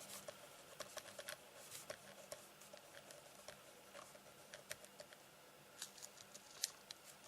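Faint, irregular light taps and scratchy clicks of a pen writing, over a low steady room hum.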